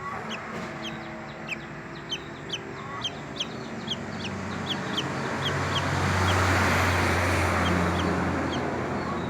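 Guacharaca (chachalaca) chick peeping: a steady run of short, high, falling peeps, about two or three a second. A rushing noise with a low hum swells up in the second half and eases off near the end.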